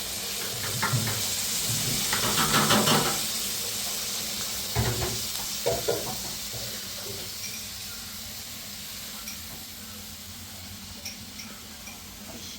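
Food frying with a steady sizzling hiss, with several knocks and clinks of a pot and a stirring utensil, busiest about two to three seconds in and again around five to six seconds, then settling to the hiss alone.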